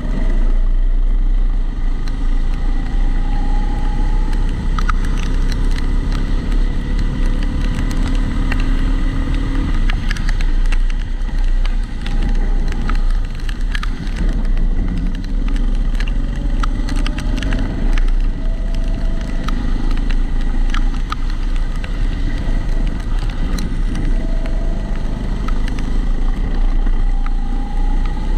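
Kombikart Eco kart's engine heard onboard, its revs rising and falling again and again over a steady low rumble. Frequent small clicks and rattles run through it, extra noise from the camera sitting in its protective housing.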